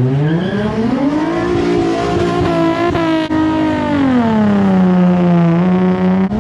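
A car engine revving up hard, holding at high revs, then easing down to a lower steady pitch before it cuts off abruptly near the end.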